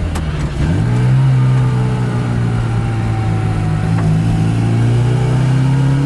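Austin Mini's A-series four-cylinder engine pulling on the road: the engine note climbs sharply under acceleration about a second in, then holds and slowly drops in pitch as it eases off, and starts to climb again near the end.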